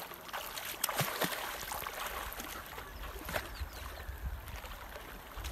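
Water in a shallow river splashing and sloshing, with a few sharp knocks, the first about a second in. A low rumble grows near the end.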